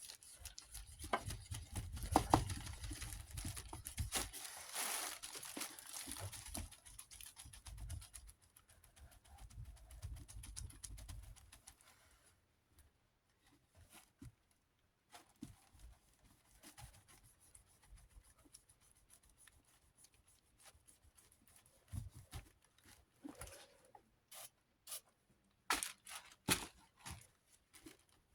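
Damp paper towel scrubbing permanent marker off a desk fan's housing, a dense scratchy rubbing for about the first twelve seconds. After that it turns quieter, with scattered light clicks and knocks of handling.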